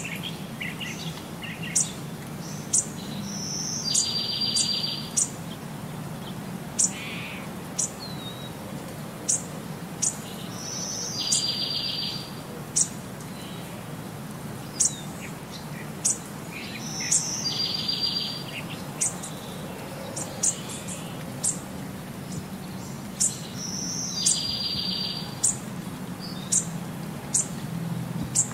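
Birdsong: short, sharp high chirps scattered throughout, and a buzzy trill about a second long that comes back about every six to seven seconds, over a steady low hum.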